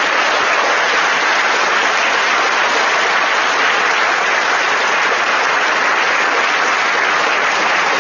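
Large audience applauding steadily, a dense even clapping that fills the hall.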